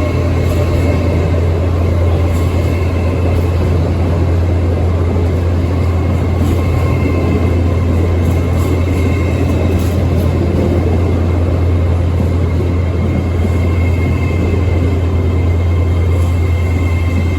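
Train running at the station: a steady, loud low drone with a faint high-pitched whine above it.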